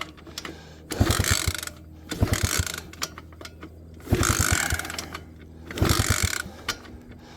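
Small pit-bike engine being kick-started: four strokes of the kick lever, about one every one and a half to two seconds, each turning the engine over without it catching.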